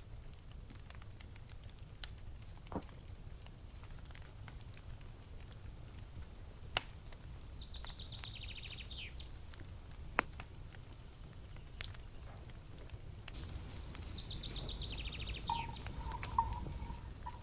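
Wood campfire crackling, with a few sharp pops scattered through. Twice, a songbird sings a rapid trill of notes falling in pitch.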